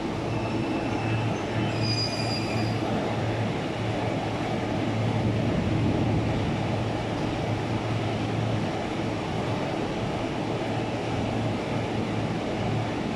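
JR EF65 electric locomotive hauling a rake of Tokyo Metro 17000 series cars, pulling slowly away from a station: a steady low hum over the continuous running noise of wheels on rail, with a faint, brief high squeal about two seconds in.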